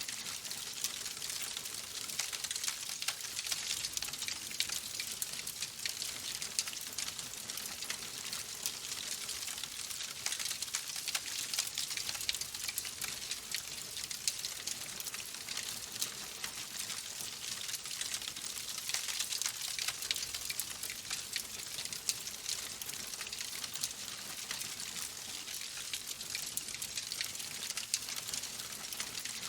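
Log fire in a fireplace crackling steadily, dense small pops and snaps over a soft hiss.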